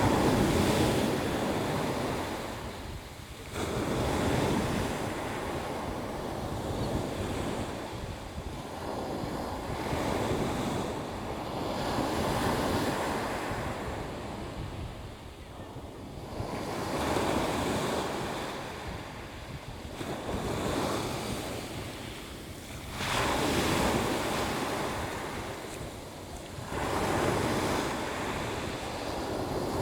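Sea waves surging and washing in, swelling and falling away in repeated rushes every four to six seconds.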